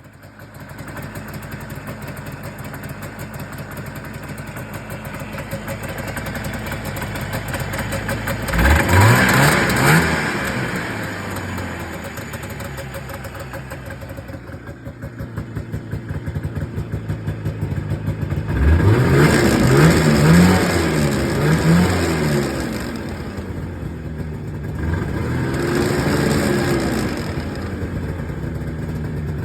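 1987 Ski-Doo Enticer 340 snowmobile's two-stroke engine running just after a rebuild. It idles and is revved up and back down about a third of the way through, several times in quick succession around two-thirds of the way, and once more near the end.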